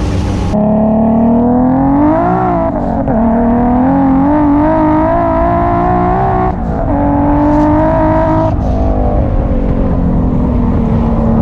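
Turbocharged 2JZ-GTE inline-six of a 900 hp Lexus SC300 under hard acceleration, heard from inside the cabin. Its note climbs through each gear and breaks at the shifts, several times in a row, then holds steadier near the end.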